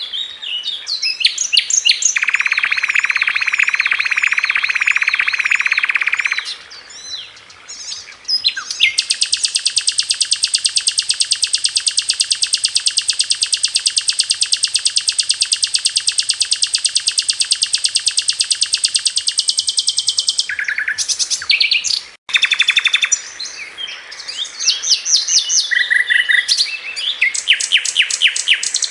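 Sikatan londo songbird singing loudly in long, very fast, evenly repeated-note trills (the 'tembakan' phrases), with short chirps and brief trills between them. The longest, highest trill runs about eleven seconds through the middle.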